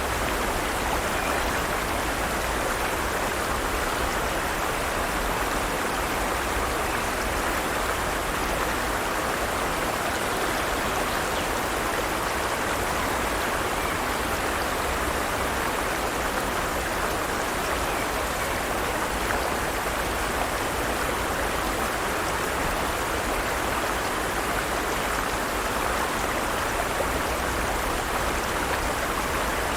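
Forest stream: flowing water with a steady, even rush that does not change.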